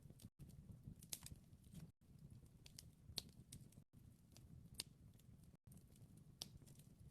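Wood fire crackling faintly, with a handful of sharp pops at irregular intervals over a low steady rumble of the burning logs.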